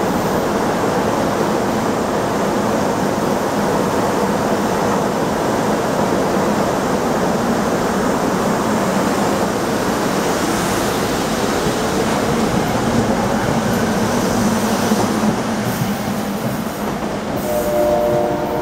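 SEPTA Silverliner IV electric railcars pulling out of the station at close range, a steady loud rolling rumble of wheels on rail. Near the end a distant train horn sounds several notes at once: the K3LA horn of another train.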